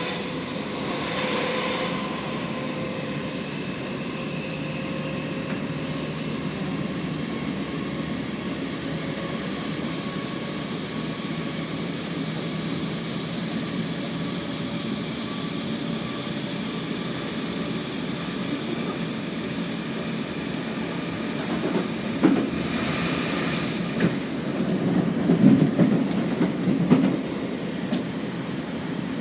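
Merseyrail electric train running between stations, heard from inside the carriage: a steady rumble of wheels on rail with a faint motor whine. Near the end come louder knocks and rattles as the wheels run over track joints.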